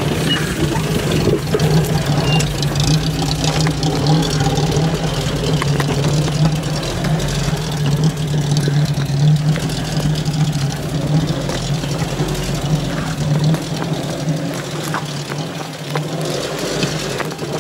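Off-road 4x4 engine running steadily at low revs, with an even low hum and rumble, as the vehicle crawls down a steep dirt track.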